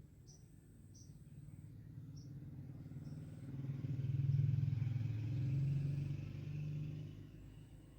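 A motor vehicle passing by: a low rumble that builds up, is loudest around the middle, and fades away near the end.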